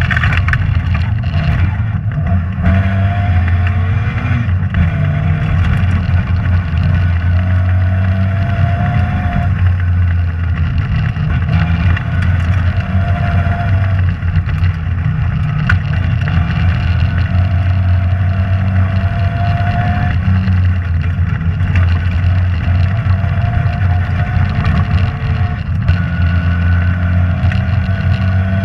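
Rally car's engine and drivetrain heard from inside the cabin, running loudly and steadily, with a higher whine that climbs and falls away several times as the car speeds up and eases off.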